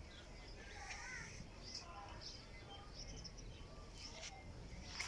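Faint chirping of small birds: many short, scattered high calls over a steady low rumble.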